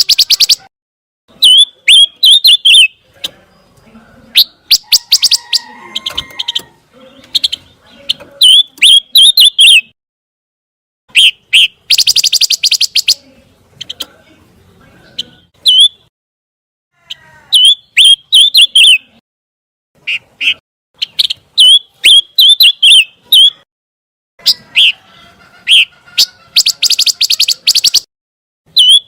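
Pancawarna bird singing: phrases of rapid, sharp chattering notes alternate with quick, wavering whistled notes. The phrases come in bursts a few seconds long, with short pauses between them.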